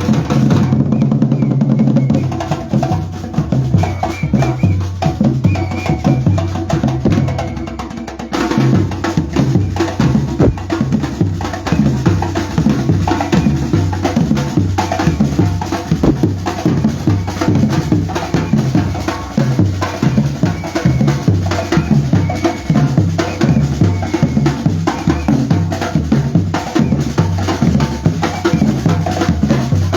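Batucada percussion group playing: bass drums and snare drums in a fast, steady rhythm, fuller from about eight seconds in.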